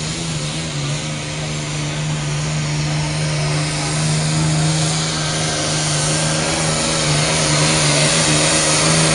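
Tractor engine running steadily at a constant pitch, growing louder and harsher toward the end.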